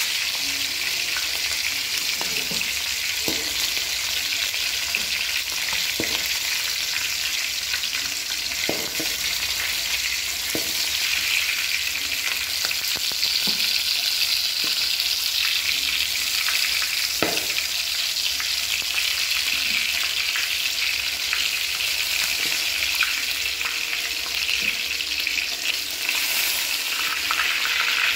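Chicken pieces sizzling as they fry in oil in a metal wok, a steady hiss, with occasional short knocks and scrapes of a metal slotted spoon stirring them against the pan.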